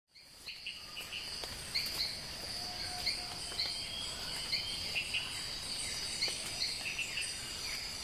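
Outdoor birdsong: small birds chirping repeatedly in short high notes, about two a second, over a steady high-pitched hiss, fading in at the start.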